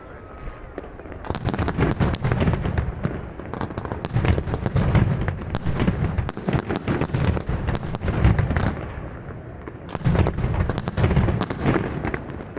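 Aerial fireworks display: a rapid, dense volley of shell bursts and crackling reports. It quiets briefly about three quarters of the way through, then another barrage starts.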